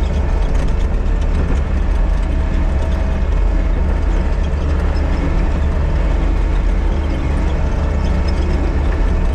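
Diesel engine of a piece of heavy earthmoving equipment running steadily, a constant low rumble with no changes in pitch.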